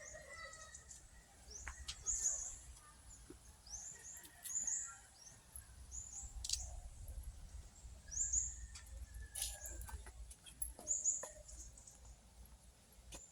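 Small birds chirping: clusters of short, high, down-slurred chirps repeated every second or two, over a faint low rumble.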